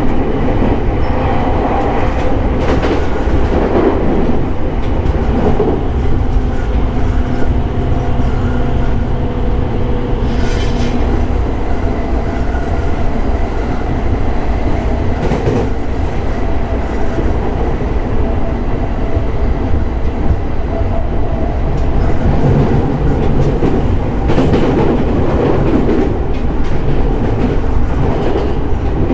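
JR East E217 series electric train running at speed, heard from inside the car: steady wheel-and-rail rumble with a few rail-joint clicks.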